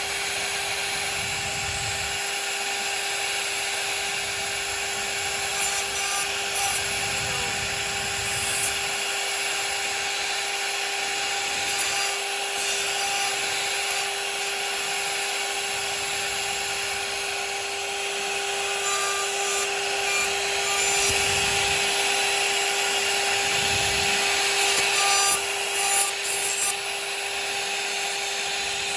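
CNC router spindle running with a steady whine while the bit cuts into wood, with a constant rasping hiss of cutting that grows louder a few times near the end.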